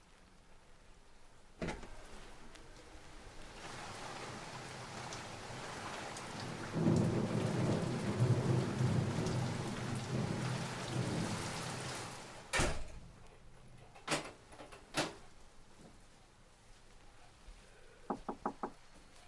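Heavy rain with rumbling thunder that builds and then cuts off at a sharp, loud bang. A couple of sharp clicks follow, then four quick knocks near the end.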